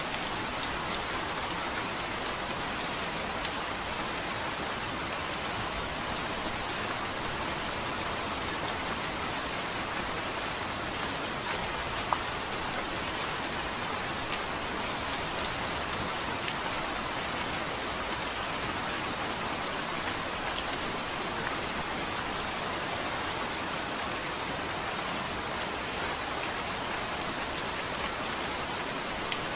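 Steady rain falling on a hard surface, a constant hiss with scattered individual drop ticks, one sharper tick about twelve seconds in.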